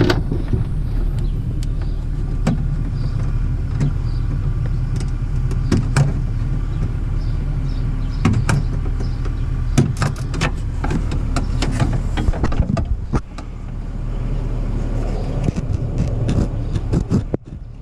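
Scattered clicks and taps of a pick tool against the interior door latch and its cable fitting as it is pried open, over a steady low drone.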